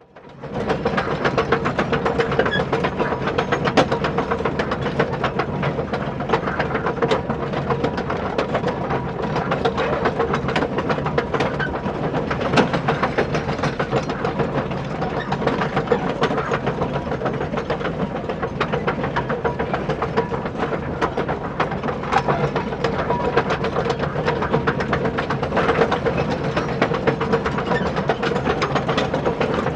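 Small electric motor and plastic gearbox of a radio-controlled toy construction vehicle running, a steady whine with a dense rattle of gear clicks, starting abruptly.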